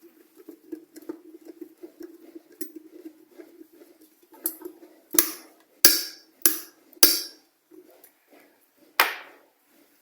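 Plastic parts of an electric kettle base knocking and clattering as the new power switch is fitted, with five sharp knocks in the second half. A faint steady hum with light ticking runs underneath.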